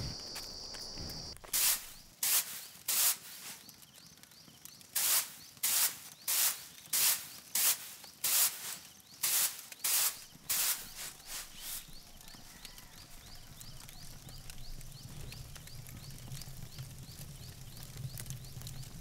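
About a dozen brisk scraping strokes in a steady rhythm, roughly two a second, like a stiff brush or broom dragged over a rough surface, with a short pause after the first few. A steady high whine stops just before the strokes begin, and a low steady hum comes in near the end.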